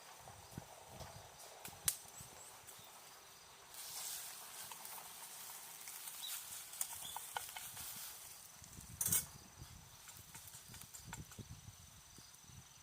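Cooking over a campfire: a few sharp clicks and knocks, the loudest about nine seconds in, and a hiss lasting about four seconds in the middle.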